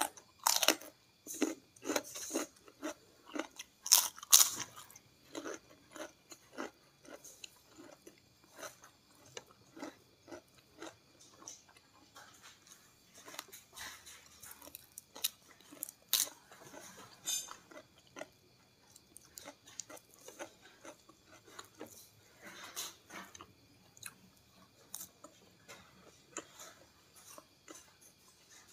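Close-miked chewing with crisp, crunchy bites of raw vegetables, loudest over the first few seconds, then softer, steady chewing.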